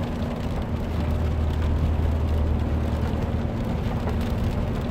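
Inside the cabin of a 2015 Subaru WRX driving on a wet road in the rain: a steady low engine drone, holding one pitch, under a constant hiss of tyres and rain on the car's body.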